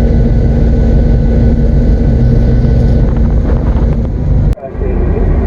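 Diesel locomotive engine running steadily, heard from the cab with some wind on the microphone. About four and a half seconds in there is a sharp click and the sound drops out briefly before it returns.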